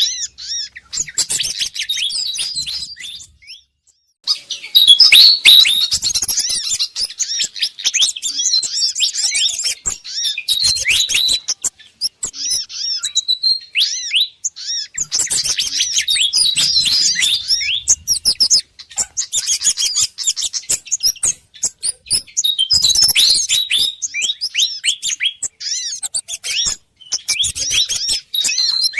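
Bird-lure recording of excited, chattering calls of Malaysian pied fantail mixed with sogon and kemade calls: rapid high chirps and short whistles in dense bursts, with brief pauses about 3 seconds in, midway, and near the end.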